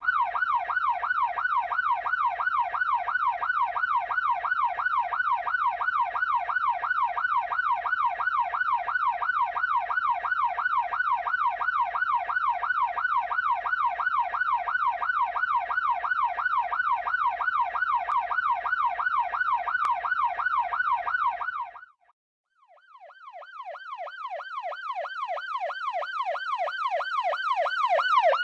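Police car siren in a fast yelp, its pitch swinging up and down several times a second. Near the end it cuts off abruptly, then a siren fades back in, growing louder.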